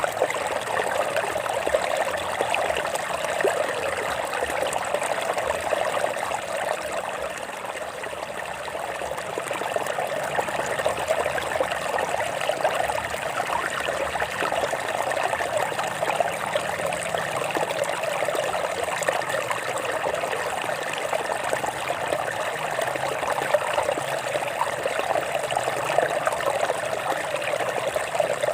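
A stream running and trickling over rocks, a steady babbling rush that dips slightly in level about eight seconds in.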